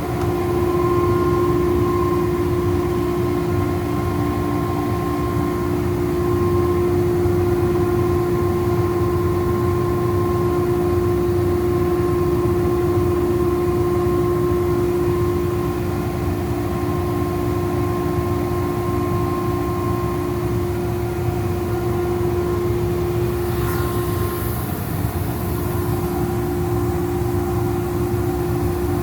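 Ingersoll Rand 50 hp air-cooled rotary screw air compressor running steadily, a constant hum of several steady tones over a low rumble. Near the end comes a short hiss, and the hum's tone shifts slightly.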